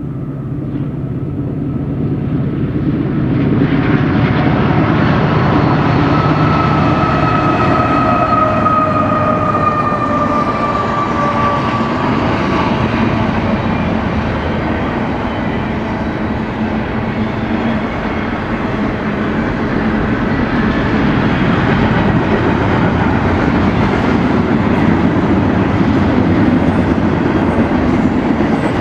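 Train passing close by: a steady rumble and rail noise that grows louder over the first few seconds and then holds, with a faint high tone sliding slowly down in pitch partway through.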